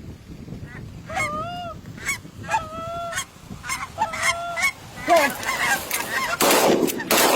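Geese honking in a run of repeated calls, then a volley of several shotgun shots near the end.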